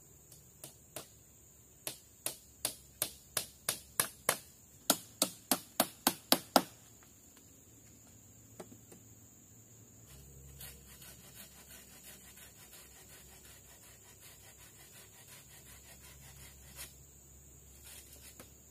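A run of about seventeen sharp knocks, roughly three a second, growing louder and then stopping abruptly, followed by a faint chorus of insects.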